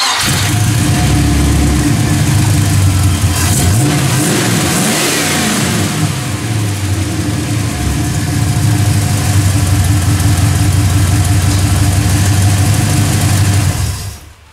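Chevrolet 305 small-block V8 on headers starting up right away and running, revved once about four seconds in, then idling steadily before it is shut off near the end.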